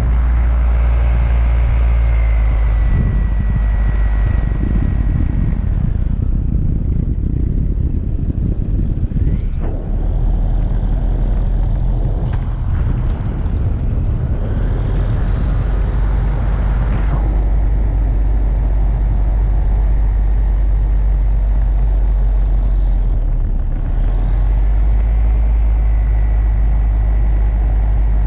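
An engine running steadily under a heavy low rumble, changing tone a few times.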